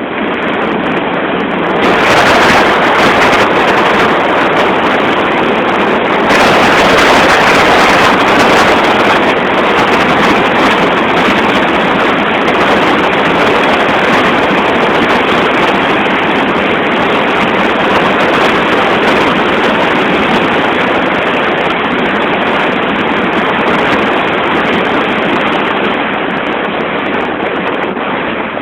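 Car driving along a road, heard as a loud, steady rush of wind and road noise without any clear engine note.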